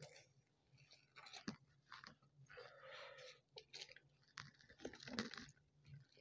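Faint close-miked eating sounds: chewing and crunching, with crisp fried bread torn apart by hand, in scattered short crackles and a longer rustling stretch about three seconds in.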